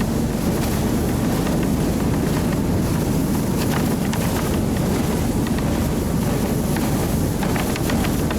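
Vehicle engine running steadily while driving, with wind buffeting the microphone.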